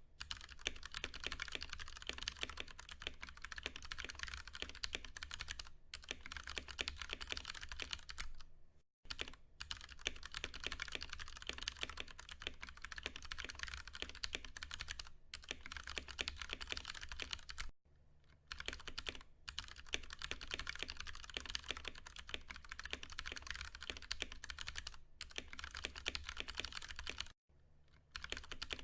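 Fast, continuous typing on a Ducky One 2 Mini mechanical keyboard with Cherry MX Brown tactile switches, the keys clacking in quick runs broken by a few brief pauses.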